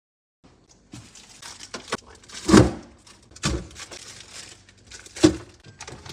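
Knocks, clatters and rustling of household items being handled, with three louder thumps, the loudest about two and a half seconds in.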